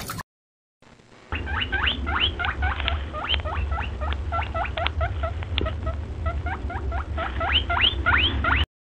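Rabbit squeaking: a quick run of short, high, upward-sliding squeaks, about four a second, over a low rumble. It starts about a second in and cuts off abruptly near the end.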